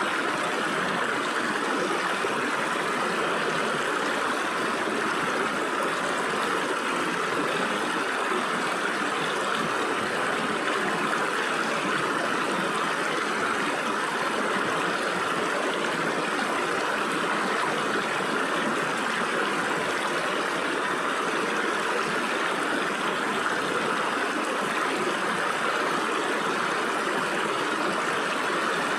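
Stream water flowing and trickling through gaps between rocks, a steady, even rushing.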